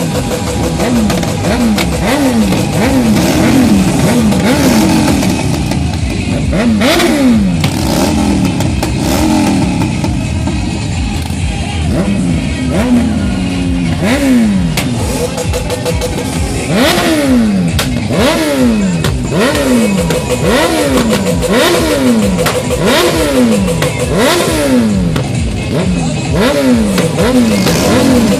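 Motorcycle engines revved hard over and over, pitch climbing and falling back in quick succession, about one to two revs a second, with more than one bike overlapping at times.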